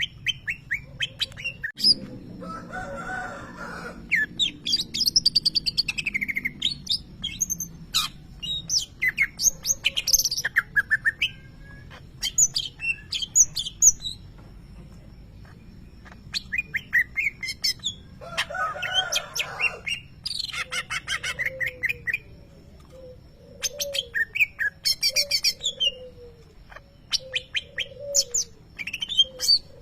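A leafbird (cucak ijo) singing a rapid, varied song of sharp chirps and trills, a song that mixes in mimicked lovebird calls. Two harsh buzzy passages come a few seconds in and again past the middle, and lower repeated notes come near the end.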